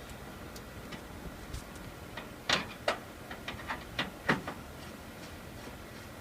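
A scatter of short, irregular clicks and knocks, the loudest grouped in the middle, from hand work on the rooftop air conditioner's cover, hardware and tools being handled.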